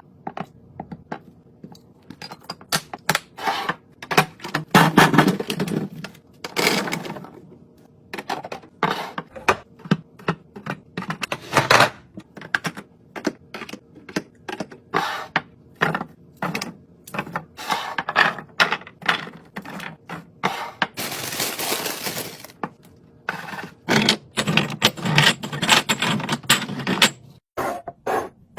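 Fridge being restocked: containers and packaged items set down and arranged on shelves, a busy run of knocks, clinks, thunks and scrapes, with a steady noise lasting about two seconds about three quarters of the way through.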